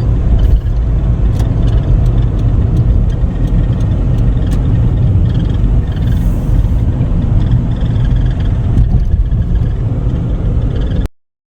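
Loud, steady low rumble that cuts off suddenly near the end.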